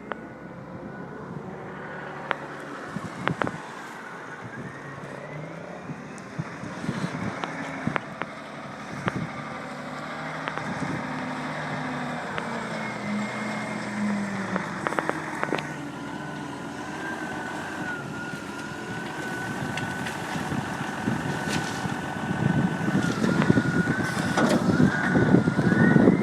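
Diesel engine of heavy yard equipment running and changing speed, its pitch rising and falling, with scattered knocks and clatter. From about halfway a steady whine joins it, and the whole grows louder near the end.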